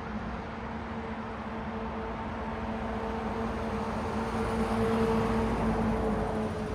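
Street traffic: a car passes, its tyre-and-engine noise swelling to a peak about five seconds in and then easing off. A steady low hum runs underneath throughout.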